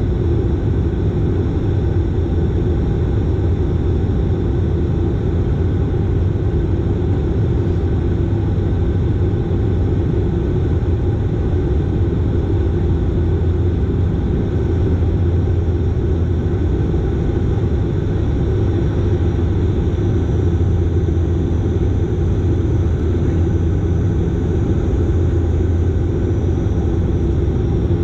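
Dash 8 Q400's Pratt & Whitney PW150A turboprop engines and propellers, a steady drone with a low hum and several constant tones above it.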